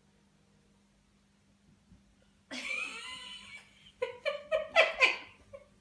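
An animal calling: after a quiet start, one drawn-out call about two and a half seconds in, then a quick run of short calls.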